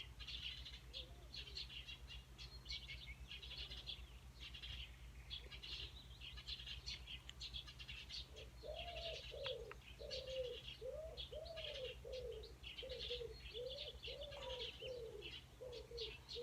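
A large pigeon-like bird calling: a run of low, arched notes about two a second, starting about halfway through and sounding like a person coughing. Small birds chirp faintly throughout, higher up.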